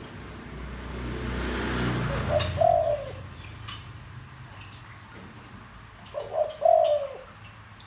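Spotted dove cooing in a deep voice: two phrases a few seconds apart, each a short coo followed by a longer one. A low rushing noise swells and fades just before the first phrase.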